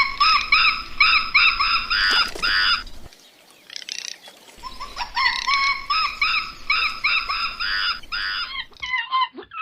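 An animal giving rapid, high-pitched chirping calls, about three a second, in two bouts separated by a pause of a couple of seconds.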